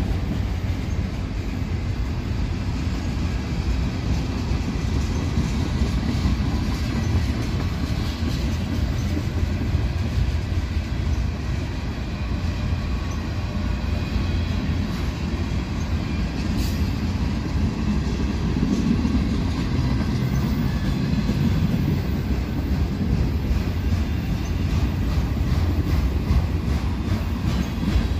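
Freight cars of a long Union Pacific manifest train rolling past, a steady rumble of steel wheels on rail with occasional clicks and a faint wheel squeal.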